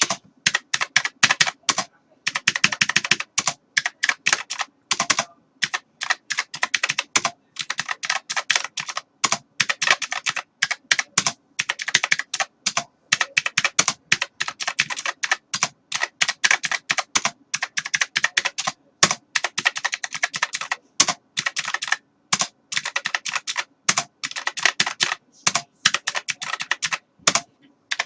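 Typing on a computer keyboard: fast runs of key clicks in bursts, with brief pauses between them.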